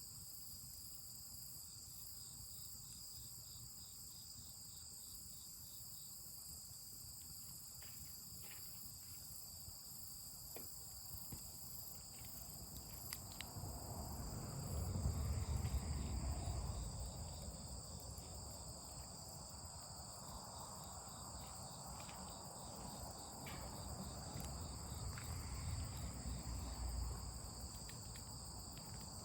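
Steady chorus of night insects, a continuous high-pitched chirring in several bands, with scattered faint clicks. A low rumble swells up twice, around the middle and again near the end.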